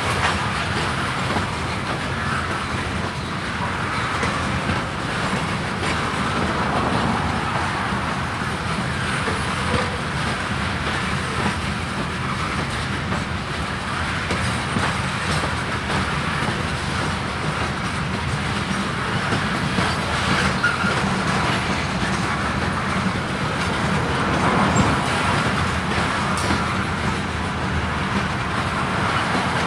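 A freight train of covered grain hopper cars rolling past steadily, steel wheels rumbling and clicking over the rails.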